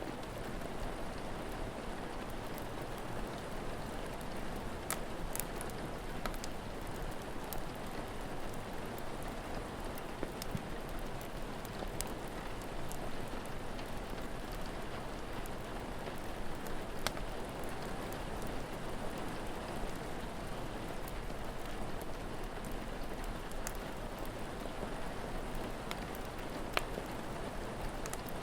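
Steady rain falling, a constant even hiss, with scattered sharp pops and crackles from a wood fire.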